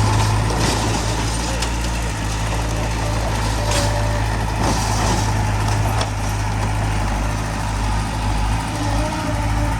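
Heavy-machinery diesel engine running steadily with a deep low hum, with a few short sharp knocks in the middle.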